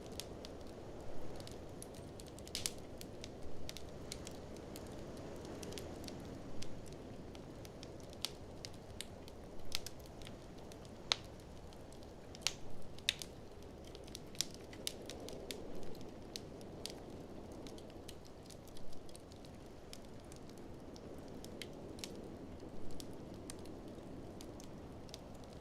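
Wood fire crackling, with sharp pops at irregular intervals, over a steady low rush of blizzard wind.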